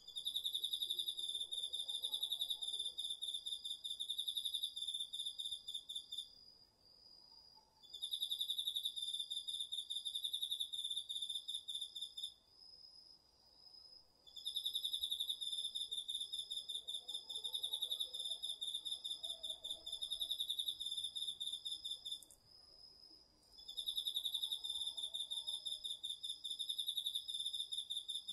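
Autumn crickets and other insects calling at night: one insect trills in long pulsed bursts of several seconds, with pauses of a second or two between them, over a second insect's steady, higher, unbroken trill.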